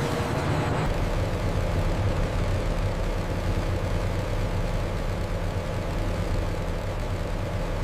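Steady drone of running machinery, an even rushing noise over a constant low hum.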